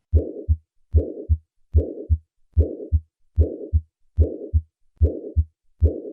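Heart sounds recorded at the cardiac apex in acute mitral regurgitation: eight regular beats at about 73 a minute, each a first heart sound followed by a systolic murmur that fades away before the second heart sound.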